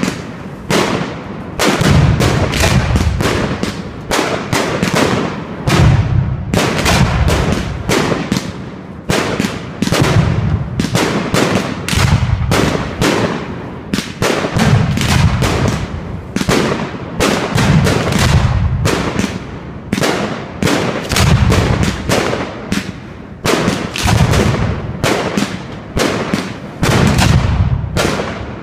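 Aerial fireworks going off in rapid succession: a continuous barrage of sharp bangs, often several a second, with a heavy low rumble between them.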